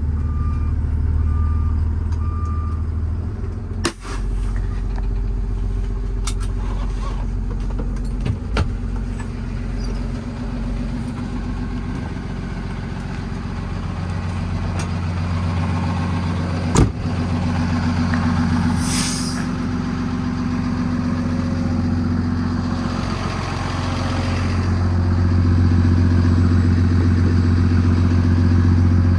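Paccar PX7 diesel engine of a Kenworth T270 running as the truck maneuvers, with its reverse alarm beeping for the first few seconds. A sharp click comes at about four seconds, and a short hiss of air comes about two-thirds of the way through. The engine note rises near the end.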